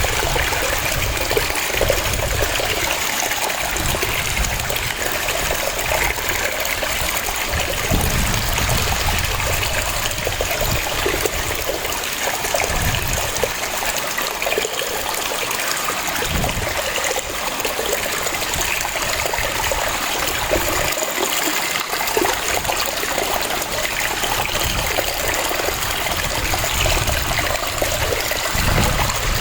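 Waterfall: water falling and rushing steadily, with a continuous splashing hiss and a low rumble that swells and fades.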